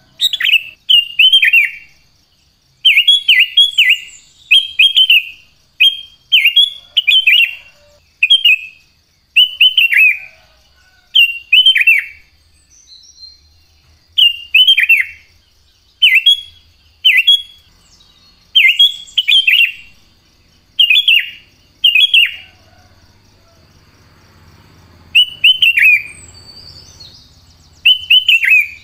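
Sooty-headed bulbul (kutilang) singing: loud, short phrases of two to four quick, falling whistled notes, repeated every second or two with a few brief pauses. A faint steady high tone runs behind.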